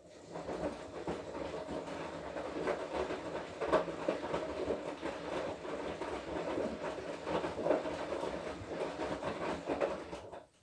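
Front-loading washing machine drum turning during the wash cycle, with laundry and water sloshing and knocking inside. It runs for about ten seconds, starting and stopping abruptly, the rotate-then-pause pattern of the wash action.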